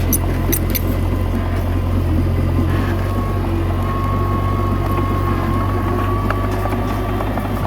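Komatsu D21A bulldozer's diesel engine running steadily, with a faint high whine above it through the middle.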